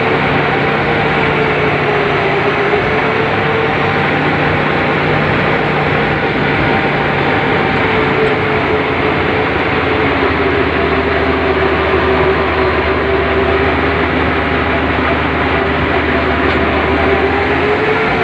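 Heavy excavator running steadily, its diesel engine and hydraulics making a continuous drone with a whine that wavers slowly in pitch.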